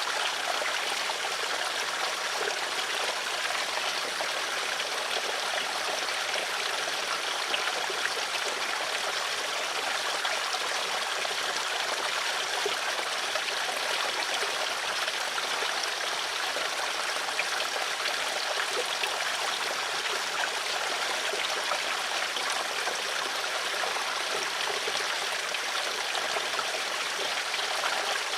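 Steady flowing water of a stream, a continuous trickling rush with no change in level.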